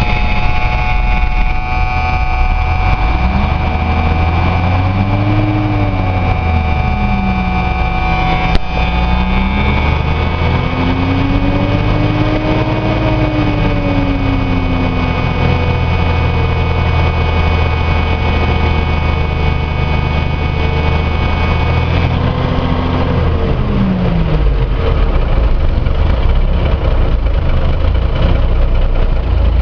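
Cummins NHC250 inline-six diesel of a 1971 AM General M817 truck running just after a cold start. Its engine speed rises and falls slowly a few times, and a steady high whine stops about two-thirds of the way through.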